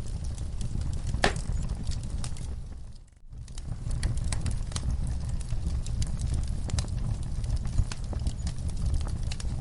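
Fire crackling: sharp, irregular pops and snaps over a steady low rumble, with the sound dropping away briefly about three seconds in.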